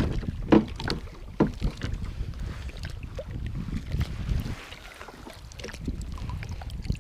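Wind rumbling on the microphone, with a few sharp knocks in the first second and a half, as a crawdad trap is hauled up on its rope alongside a kayak.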